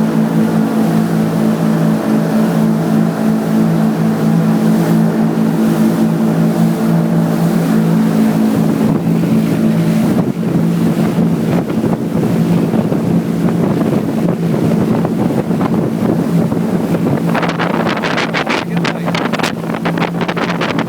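Motorboat engine running at a steady pitch, with rushing wind and water noise. About halfway through the steady hum turns rougher, and in the last few seconds wind buffets the microphone in quick gusts.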